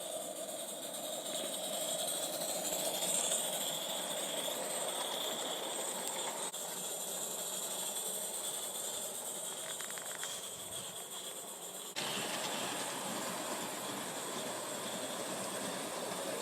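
Live steam model locomotive, a heavily modified Aristo-Craft 0-4-0 tank engine, standing in steam with a steady hiss of escaping steam. The hiss shifts abruptly about six and a half seconds in and steps up louder about twelve seconds in.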